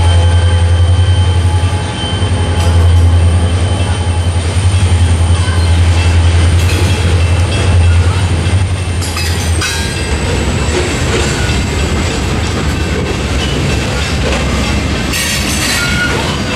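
The trailing EMD SD45 diesel locomotive of a stone train passes with a loud low drone that drops away about ten seconds in, leaving loaded stone hopper cars rolling by with steady wheel rumble, rail clatter and some wheel squeal.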